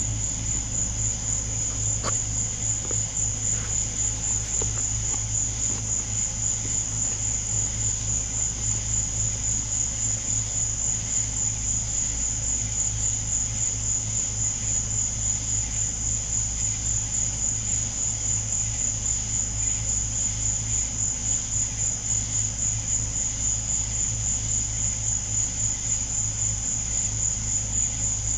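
Chorus of night insects calling, a steady high-pitched trill that pulses evenly, over a steady low hum.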